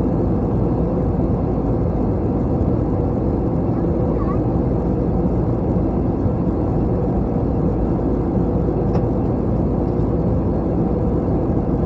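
Steady cabin noise of an Airbus A321 airliner in flight, heard inside the cabin: an even, low drone of engines and airflow over the fuselage.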